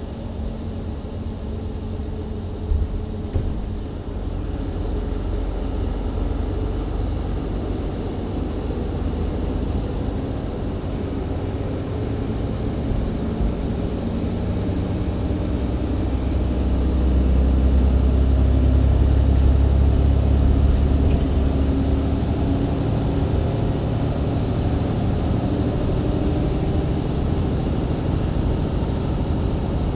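Mercedes-Benz Citaro C2 LE MÜ Hybrid bus's diesel engine and Voith automatic gearbox heard from inside the bus while driving, over road noise. The engine gets louder through the middle as the bus pulls away on the country road, loudest about two-thirds of the way in, then eases a little. There is a brief rattle or knock a few seconds in.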